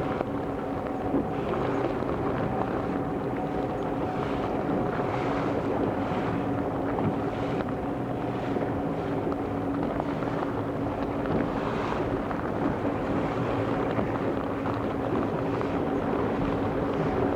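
A motor running at a steady speed, its constant hum heard under wind buffeting the microphone and rushing water.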